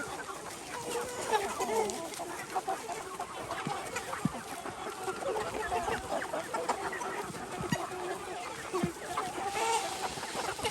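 A flock of egg-laying hens clucking, with many short calls overlapping throughout and a few scattered sharp taps.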